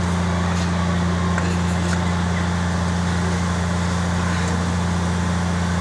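Car engine idling steadily with an even, low hum, with a few faint light clicks over it.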